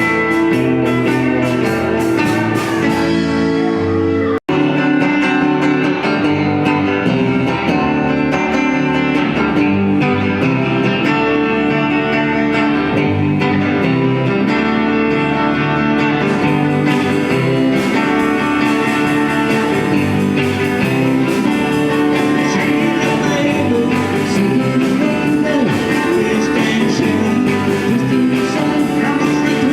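A band playing blues-flavoured music led by guitar. The music cuts out for an instant about four seconds in, where one recording is spliced to the next.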